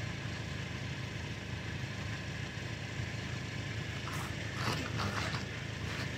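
Steady low hum of a car's engine running, with a few brief clicks and rustles from about four seconds in.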